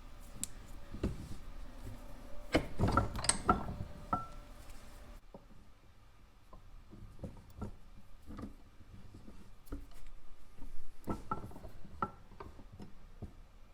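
A bench vise being worked to press new bushings into a car door hinge. It gives scattered metal clicks and knocks, busiest about three seconds in and again near eleven seconds.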